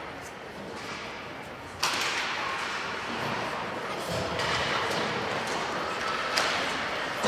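Ice hockey play echoing in an indoor rink: a sharp knock about two seconds in, after which the rink noise gets louder, and another, smaller knock near the end.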